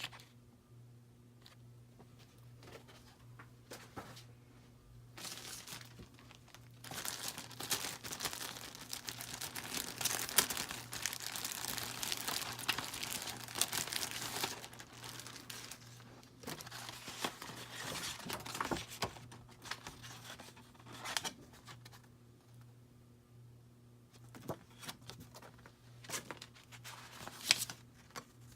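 Packing material crinkling and rustling as the fan's parts are unwrapped. There is a dense stretch of handling lasting several seconds in the middle, with scattered crackles and light knocks before and after it.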